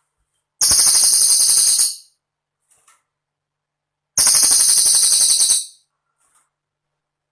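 Cililin bird singing: two bursts of a very high, rapid trill, each about a second and a half long, with a pause between.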